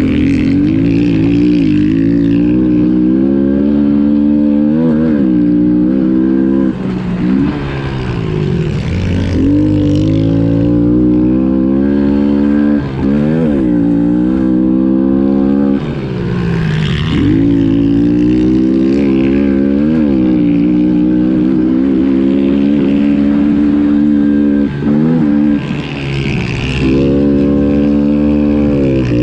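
Pit bike engine revving hard, its pitch dropping away and climbing back up every few seconds as the throttle is closed and reopened through the track's turns and jumps.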